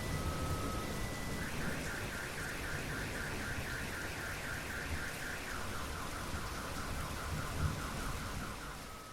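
Steady rain with low rumbling, and a car alarm sounding through it: two-tone beeps at first, a fast warbling tone from about a second and a half in, dropping to a lower warble about halfway through.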